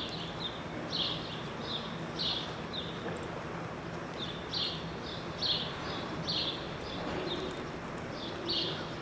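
Small birds chirping: short, high chirps at irregular intervals, over a faint steady low hum.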